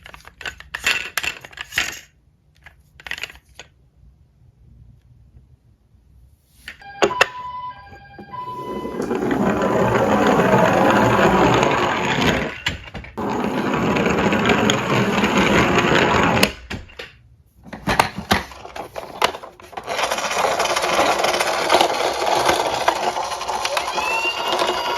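Small diecast toy cars clinking against one another, then long stretches of steady rattling noise as the metal cars roll down a slope, with a short break in the middle.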